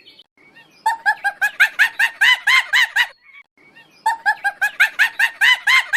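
A goose honking in two quick runs of repeated, arched notes, about five a second, with a short pause between the runs.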